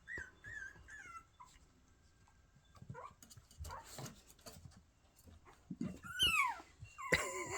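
Puppy giving a quick run of short, high-pitched squeaky yips, then after a pause a single stronger yelp falling in pitch about six seconds in: early attempts at barking.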